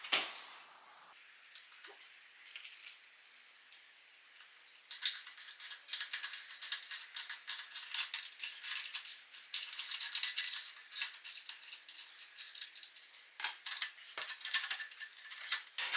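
Rapid metallic clicking and rattling, starting about five seconds in, as the clamp on the bottom of the motorcycle's exhaust slip-on is worked loose.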